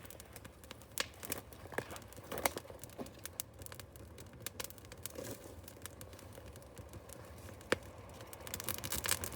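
Irregular rustling, tearing and crackling of paper and birch bark being handled to start a fire, with one sharp click about three-quarters of the way through. The noise grows near the end.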